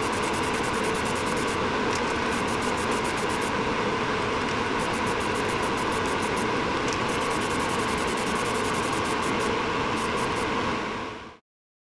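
A power tool running steadily, with runs of fast, fine ticking over its hum. It cuts off suddenly near the end.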